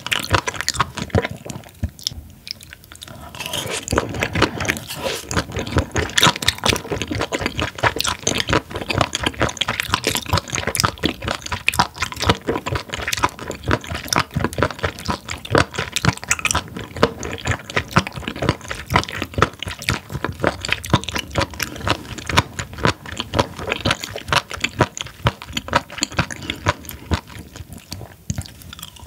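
Close-miked chewing of raw spoon worm (gaebul), a dense run of rapid wet, crunchy clicks from the firm, rubbery flesh. It eases off briefly about two seconds in and again near the end.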